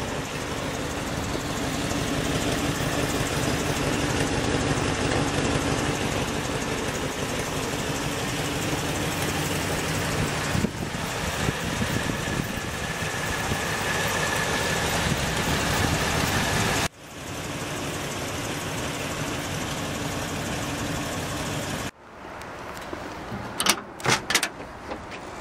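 1963 Buick Riviera's 401 cubic-inch Nailhead V8 idling steadily, with the sound breaking off sharply twice in the second half. Near the end come a few sharp clicks as the chrome door handle and latch are pressed.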